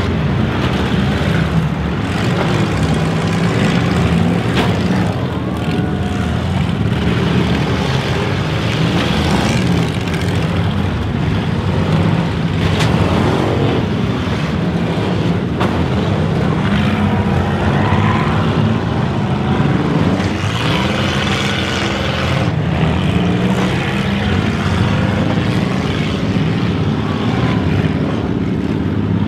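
Several demolition derby cars' engines revving hard at once, their pitches rising and falling, with a few sharp bangs of cars colliding.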